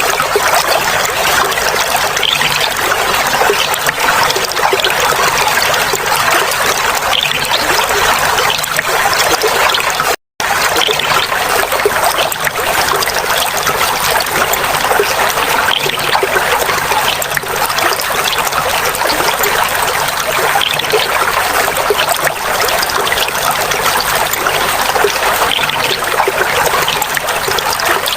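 Clear water flowing and trickling steadily, like a small stream splashing over stones. The sound cuts out for a split second about ten seconds in, then carries on unchanged.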